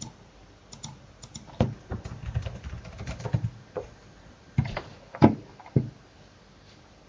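Typing on a computer keyboard: a run of key clicks with a few harder key strikes, stopping about six seconds in.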